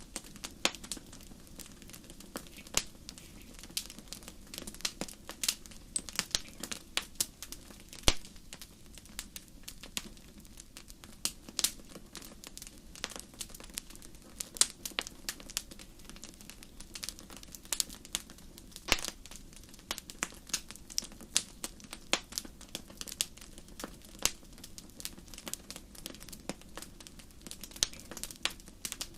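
Campfire crackling: irregular sharp pops and snaps over a low steady hiss, with a few louder pops.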